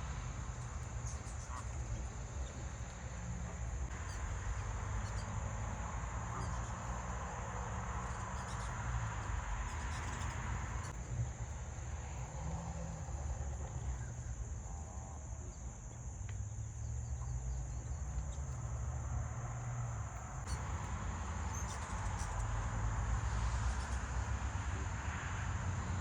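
Steady high-pitched insect chorus over a low, uneven rumble.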